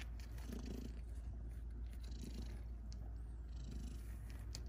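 A domestic cat purring softly, a faint steady rumble that swells and eases with its breathing.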